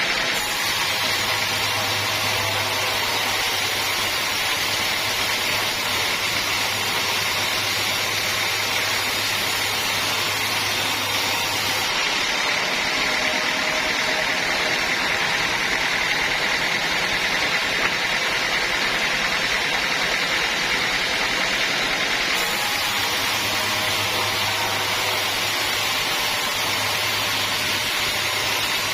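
Sawmill saw running steadily while teak logs are sawn, a constant mechanical noise. A low hum under it drops out about twelve seconds in and returns about ten seconds later.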